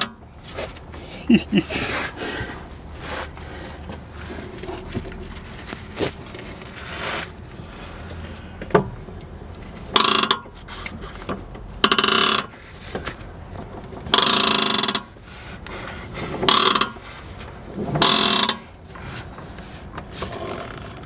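Worn strut top-mount bearings creaking and grating as the front wheels are steered, with small clicks at first and then about five loud, rough creaks in the second half, one lasting about a second: the bearings are shot.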